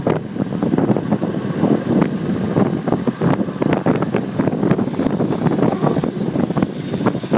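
Motorcycle on the move, picked up by a phone mounted on the bike: engine and road noise under heavy, irregular wind buffeting on the microphone.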